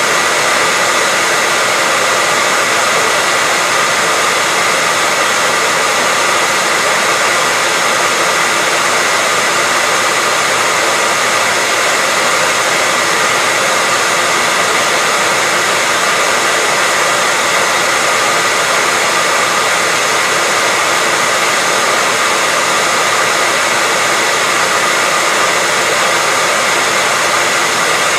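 Hair dryer running continuously at a constant speed: a steady, unbroken rushing of air with a faint motor whine.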